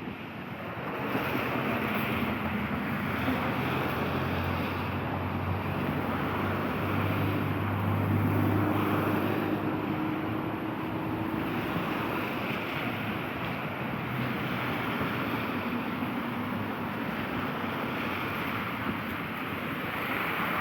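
Street traffic on a wet road: a motor vehicle's engine hum under the hiss of tyres on wet asphalt, swelling about a second in and loudest around the middle.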